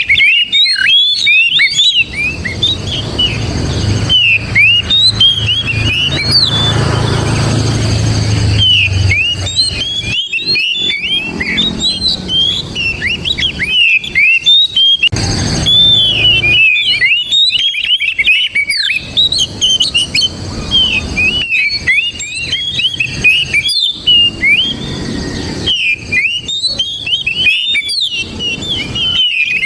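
Oriental magpie-robin (kacer) singing a long, fast string of loud whistled, sweeping notes, with short pauses. A low rumble runs under the song for a few seconds, starting about four seconds in.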